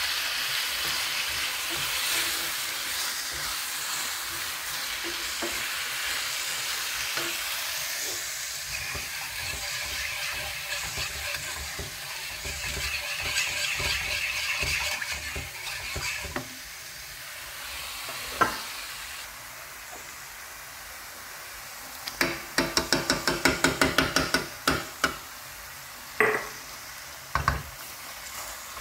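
Food sizzling in a frying pan while being stirred, the sizzle steady at first and fading about halfway through. Around two-thirds of the way in, a quick run of ringing metal clinks, like a utensil knocking against the pan, with a few single knocks around it.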